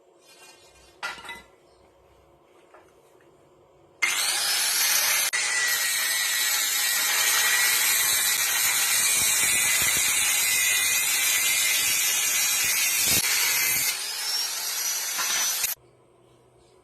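Angle grinder spinning up and cutting into the steel exhaust neck pipe, a loud steady hiss over a high whine for about twelve seconds, easing briefly just before it cuts off.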